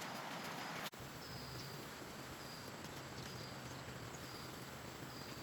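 Outdoor rural ambience: a steady hiss with a short high chirp repeating about twice a second. The sound cuts briefly about a second in, and the chirping starts after it.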